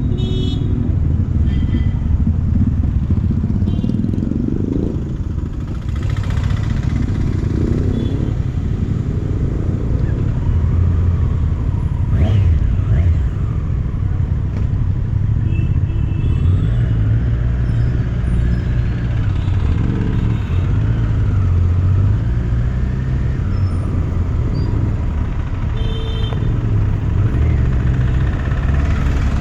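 Triumph Street Triple RS's 765 cc inline three-cylinder engine running on the move, its revs rising and falling several times over a steady low rumble.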